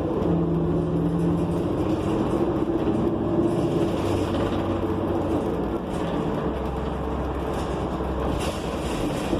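Inside a New Flyer XN40 transit bus under way: its Cummins Westport ISL G natural-gas engine and Allison B400R transmission run steadily over road noise in the cabin, the engine tones shifting a few times.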